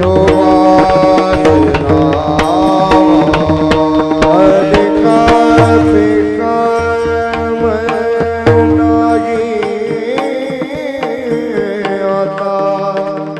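Indian music with tabla drumming under a gliding melodic line and a steady drone.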